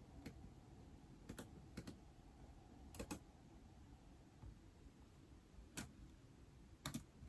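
Scattered keystrokes on a keyboard used with an iPad: a single click or a quick pair every second or so, over a faint room hiss.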